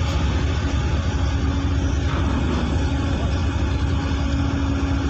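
Steady low rumble and constant hum of a ferry's engines under way, with an even rushing noise over it and no change in pitch.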